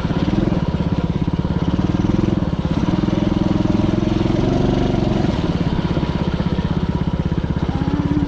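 Dirt bike engine running with a fast, even throb; its pitch drops about five seconds in as the throttle eases off.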